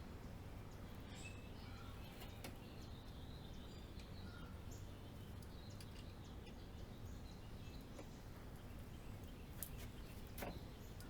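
Faint steady background hum with scattered light clicks and small chirps, and two sharper clicks near the end.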